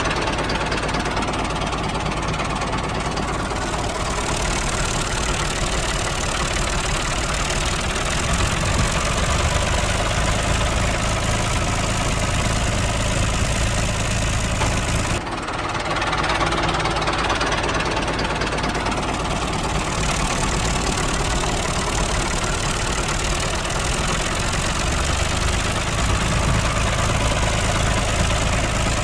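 A tractor engine sound running steadily at idle with a knocking chug. There is a brief break about fifteen seconds in, after which the same sound starts over.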